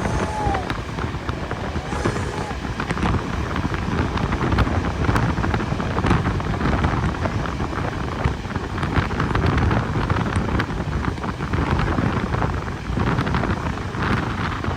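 Steam train running, a steady rumble with many small knocks and heavy wind on the microphone. A thin high squeal dies away in the first half second.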